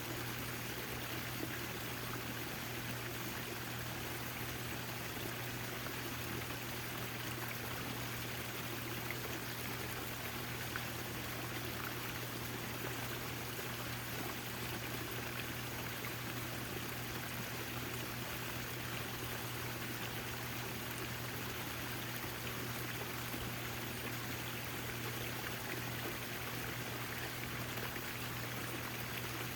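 Backyard water fountain running: a steady, even splashing and trickling of falling water, with a steady low hum underneath.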